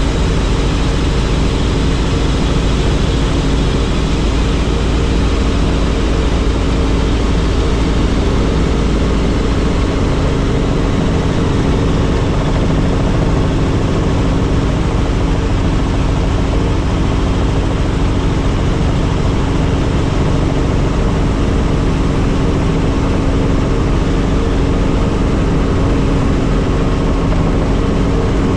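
Helicopter running, a steady loud drone of rotor and turbine with a constant hum and deep rumble underneath.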